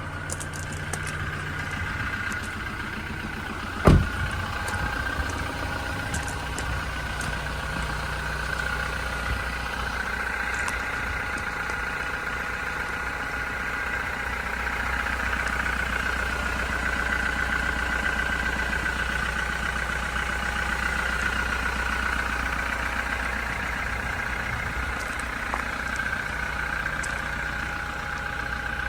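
Toyota Hilux pickup's diesel engine idling steadily, with a single sharp thump about four seconds in.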